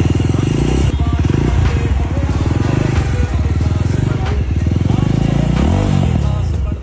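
Motorcycle with a Red Rooster aftermarket exhaust running loud, a dense, rapid low pulse from the exhaust. The revs dip and climb again near the end.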